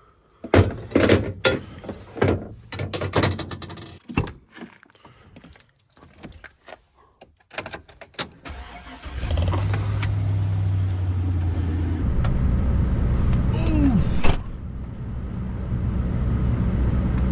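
Irregular knocks and clatter of gear being handled, then, from about halfway, a 2004 Chevy 1500 pickup running with a steady low hum, as if on the road. Near the end there is a short falling squeak and one sharp knock.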